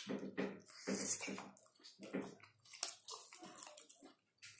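Close-miked chewing and mouth sounds of someone eating rice and fried meat by hand: a quick, irregular run of clicks and smacks.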